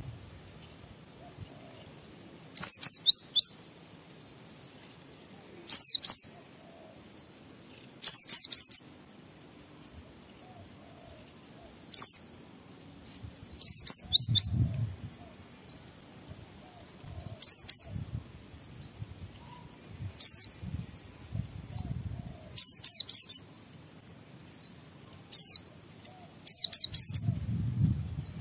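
White-eye (pleci) singing in short bursts of rapid, high, falling chirps, one burst every two to three seconds, some bursts coming close together.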